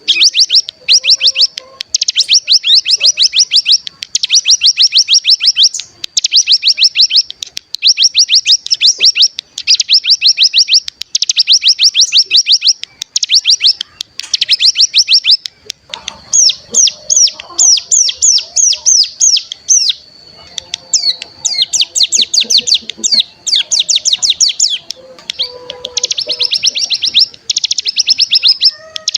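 Ciblek gunung songbird singing its long, rapid trill ('ngebren'): high-pitched bursts of about ten sharp notes a second, each burst lasting a second or two with short gaps between, a few faint lower notes underneath in the second half.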